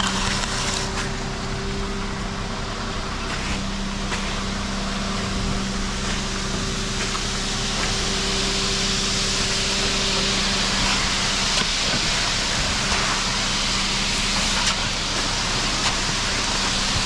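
Ready-mix concrete truck's diesel engine running steadily while it discharges a pea-gravel concrete mix, with a rushing noise of the pour that grows louder about halfway through.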